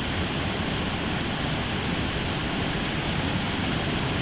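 Steady rush of water pouring from the dam, an even noise that does not change.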